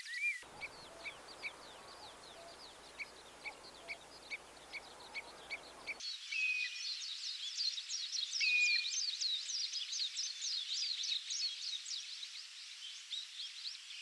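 Common redshank and other birds calling: a steady series of short call notes, about two a second, for the first six seconds or so, then a dense chorus of quick, high chirps with an occasional longer whistled note.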